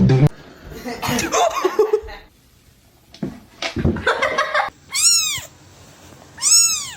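A cat meowing twice near the end, short high calls that rise and fall in pitch, after some mixed shorter noises earlier on.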